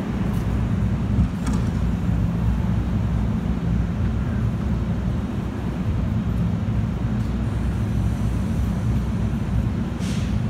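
NJ Transit diesel-hauled commuter train standing at the platform with its engine idling: a steady low rumble and hum. A short hiss comes near the end.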